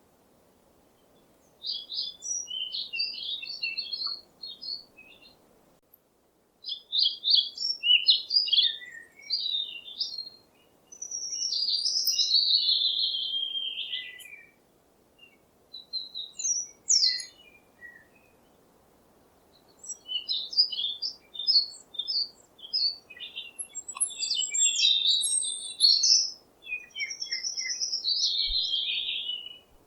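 Birds chirping and singing in phrases of quick, high chirps and trills, with pauses of a second or two between phrases, over a faint steady hiss.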